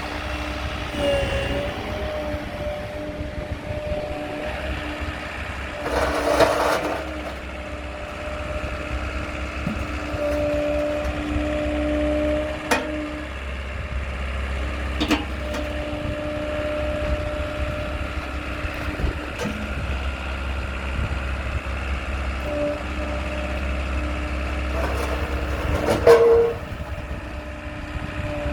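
JCB 86C-2 mini excavator's Kohler 2504 TCR 2.5-litre four-cylinder turbo-diesel running steadily, with short louder surges about six seconds in and again near the end, and a few sharp clicks.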